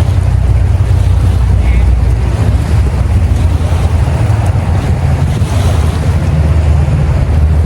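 Wind buffeting the microphone: a loud, steady low rumble with an even hiss above it.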